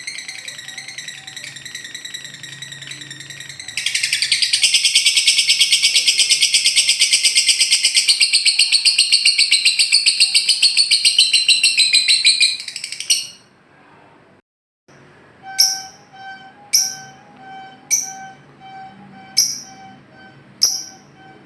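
Lovebird 'ngekek': a long, fast, shrill chattering trill that gets louder about four seconds in and cuts off suddenly about thirteen seconds in. After a short gap, sharp falling call notes repeat about once a second over a steady pulsing tone.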